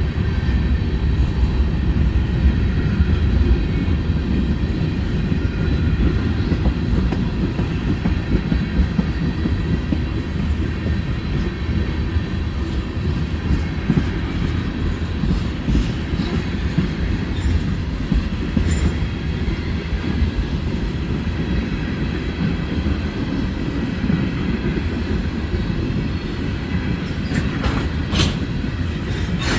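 Freight cars of a Norfolk Southern manifest train rolling past in a steady low rumble, with wheels clattering over the rails and a faint high squeal at times.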